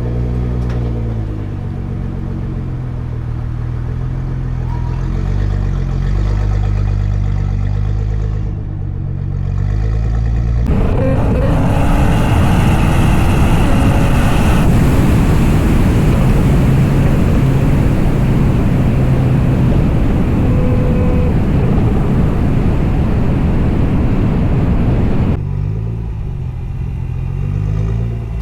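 Nissan GT-R's engine running and being revved, its pitch rising and falling. About ten seconds in, it gives way abruptly to a louder, rougher rush of engine noise that lasts about fifteen seconds before the steadier engine note returns.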